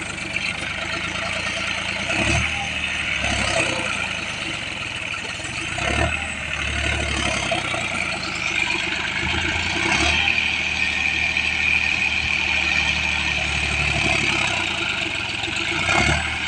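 Farm tractor's diesel engine running under load, its speed rising and easing as it strains to move out of deep paddy-field mud that keeps packing into its wheels. A few sharp knocks are heard along the way.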